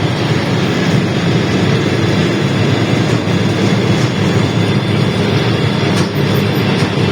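LiAZ-677M bus underway, heard from inside the cabin: the steady drone of its ZIL V8 petrol engine mixed with road noise, with a couple of faint clicks near the end.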